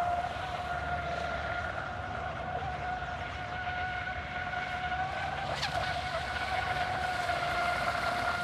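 Radio-controlled electric speed boat's motor whining steadily on a high-speed pass, with a brief wobble in pitch a little past halfway. The owner finds the boat down on speed with the same batteries and prop, and suspects its centre of gravity.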